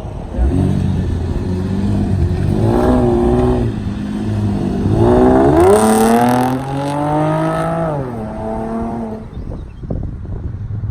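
2010 Chevrolet Camaro's 3.6-litre V6 through a catback exhaust with the resonator deleted and bullet-style mufflers, revving up. It revs briefly about three seconds in, climbs higher and longer to a peak around the middle, then drops back near the end.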